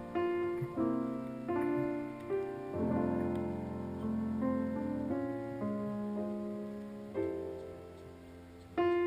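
Background piano music: slow, gentle sustained chords, a new one struck every second or so, fading softer near the end.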